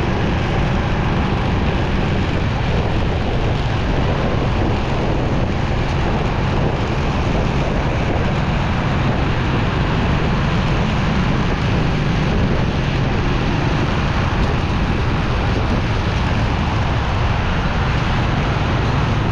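Steady wind rush on the microphone mixed with motorcycle engine and road noise while riding through traffic.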